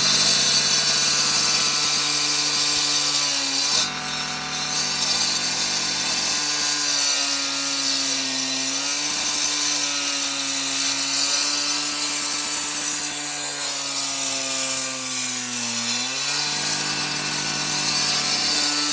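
Hilti concrete saw running and cutting concrete, a steady motor whine over gritty cutting noise. Its pitch sags as the blade loads up in the cut, once about four seconds in and again near sixteen seconds, then recovers.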